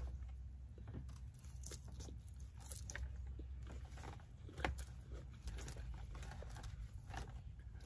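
A person chewing a mouthful of salad with candied walnuts and flatbread: small irregular crunches and clicks over a low steady hum.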